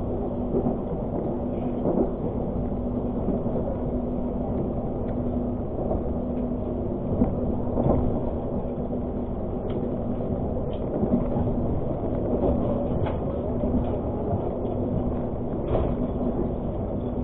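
Steady running noise heard inside a passenger coach of a moving train: a low rumble with a constant hum and scattered short clicks and knocks from the wheels on the rails.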